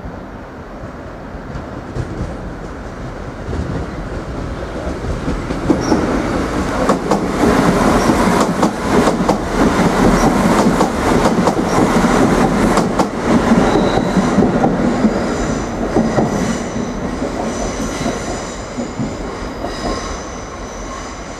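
Irish Rail 22000 class diesel multiple unit passing through: the diesel rumble and the clatter of wheels over rail joints build up, peak as the carriages go by, then fade away. Thin high squealing tones sound as the rear of the train passes.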